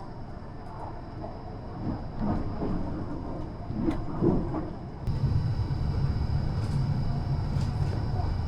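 Northern Class 333 electric train running on the line, a steady rumble that turns suddenly louder about five seconds in.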